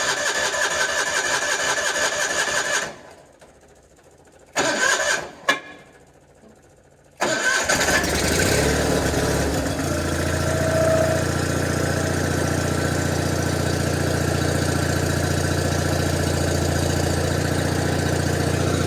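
John Deere 420's two-cylinder engine being started cold after sitting about ten months. It is cranked for about three seconds, stops, gets two short bursts, then is cranked again a little past halfway and catches, settling within a few seconds into a steady idle.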